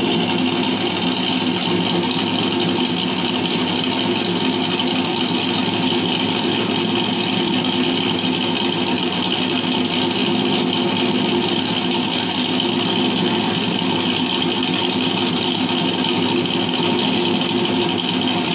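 Holden 308 V8 idling steadily, held at a constant idle with no revving.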